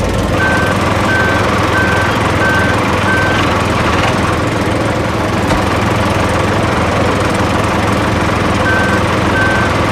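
Construction machine's engine running steadily, with a reversing alarm beeping about one and a half times a second for the first few seconds and again near the end.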